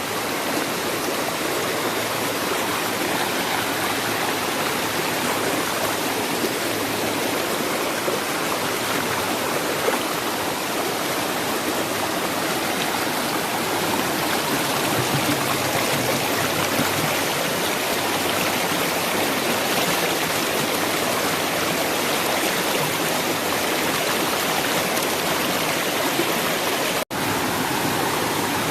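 Steady rush of river water tumbling at a waterfall, with a brief break near the end.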